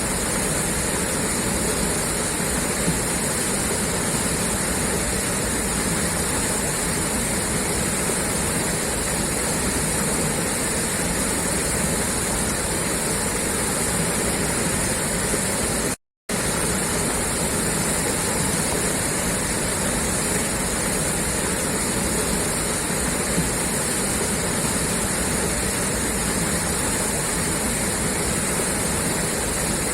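Water gushing steadily out of a pipeline outlet, a constant rushing splash. It cuts out for a split second about halfway through.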